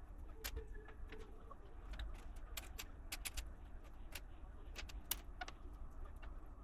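LEGO bricks being handled and snapped together: a scatter of small, sharp plastic clicks at irregular intervals, about fifteen in all, over a low background hum.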